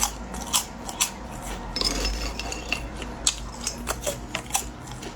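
Eating at a table: a run of irregular sharp clicks and crisp crunches, with a faint low hum underneath.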